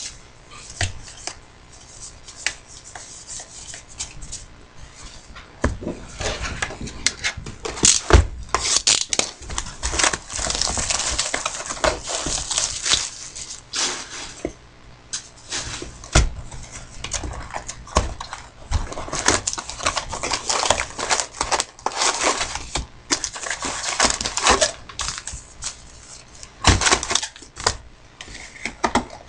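Trading card packs and cards being handled: wrapper crinkling and rustling mixed with irregular sharp clicks and taps as cards are sorted and set down.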